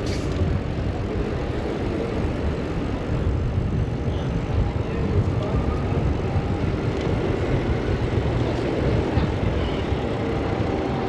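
Steady road traffic noise heard from a bicycle riding along a busy city street, with a continuous low rumble.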